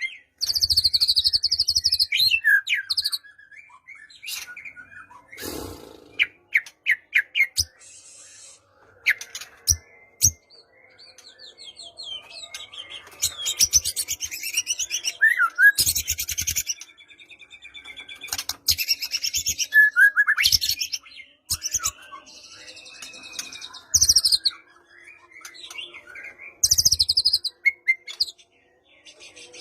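White-rumped shama (murai batu) singing a varied song of whistled notes and quick glides in phrases separated by short pauses, with several loud, harsh, noisy bursts mixed in.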